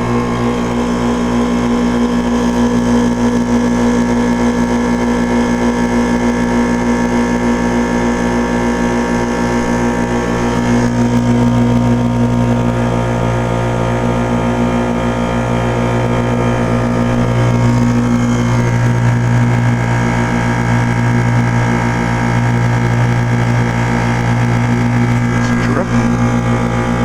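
2001 Trane XE1000 Weathertron 5-ton heat pump outdoor unit running in defrost mode, its reciprocating compressor giving a steady low mechanical hum that grows stronger about ten seconds in.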